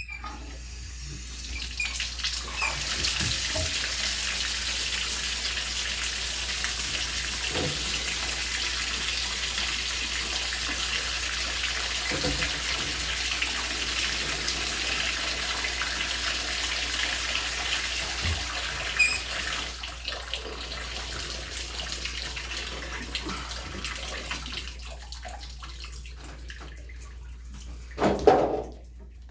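Shower running: water spraying steadily from a newly refitted shower head, turned on to test the shower-arm nipple joint for leaks. The spray eases off about two-thirds of the way through, and there is a thump near the end.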